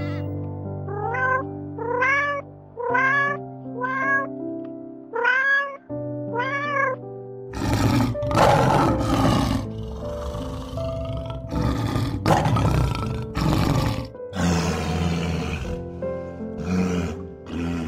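Background music with animal calls over it: first a quick series of short calls, each rising and falling in pitch, then from about halfway louder, harsh, noisy calls.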